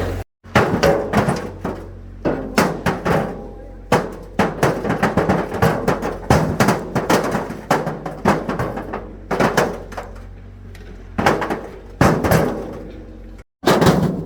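Stones being tossed and dropped onto a load, a rapid, irregular run of clattering knocks, several a second, some ringing briefly.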